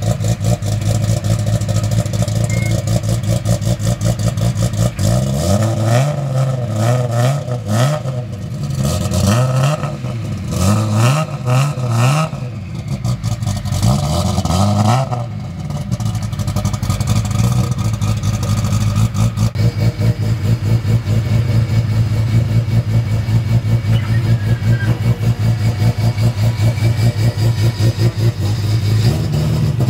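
Nissan Skyline GT-R's RB26 straight-six idling with a pulsing beat, the throttle blipped again and again for about ten seconds in the middle, each rev rising and falling back, before it settles to idle.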